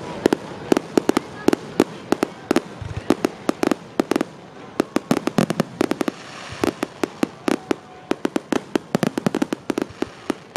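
Aerial fireworks shells bursting in a dense, rapid run of sharp bangs, several a second, thinning briefly about halfway through before picking up again.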